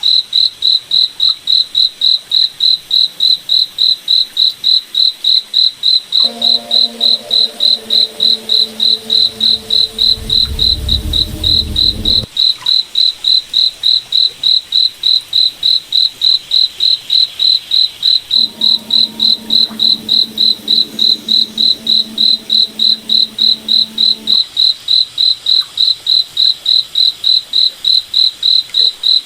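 Crickets chirping in an even rhythm, about two to three high chirps a second. Twice, for about six seconds each, a lower steady hum of several tones sounds beneath them, with a low rumble near the end of the first stretch.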